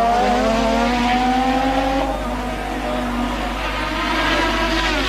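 Late-1980s Formula One car engines at high revs. One engine climbs steadily in pitch over the first two seconds as the car accelerates. Another car's engine comes through after that, its pitch dropping near the end.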